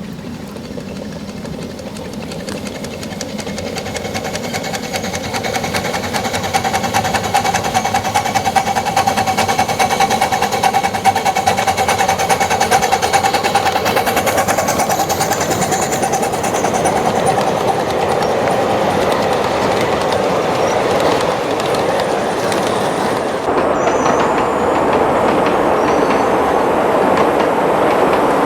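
A train running on the track, its wheels clicking over the rail joints, growing louder over the first ten seconds or so as it comes closer, with a steady whine in the middle.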